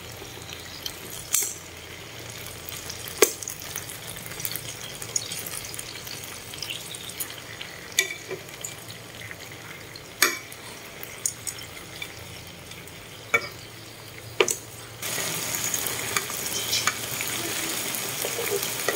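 Lá lốt-wrapped mushroom rolls sizzling in a pan, with metal tongs clicking against the pan several times as the rolls are turned. The sizzle gets suddenly louder about fifteen seconds in.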